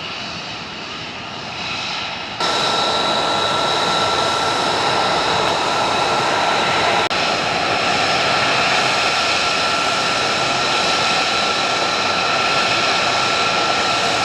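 Douglas C-47's twin radial piston engines running, a loud steady drone with thin steady high tones over it. It becomes abruptly louder about two seconds in.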